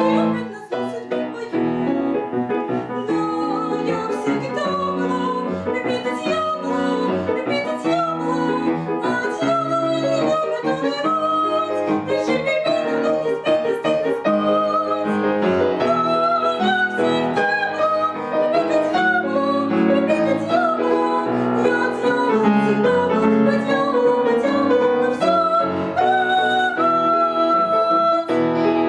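Piano playing an operetta song in a light, lively style, with a woman's voice singing over it.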